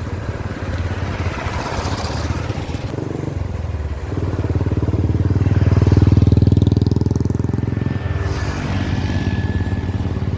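An engine running steadily with a fast, even pulse. It grows louder about four seconds in and eases back a couple of seconds before the end.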